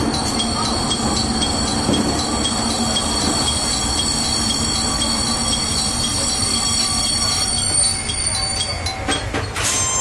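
Railcar rolling slowly into a station, heard from the cab, with a steady rumble and a high squeal from the wheels and brakes. The squeal dies away about eight seconds in, and a few sharp knocks follow.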